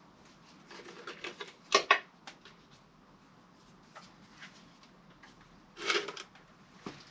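A few short clicks and rattles of tools and parts being handled, with the loudest clatter about two seconds in and a brief rustle near six seconds.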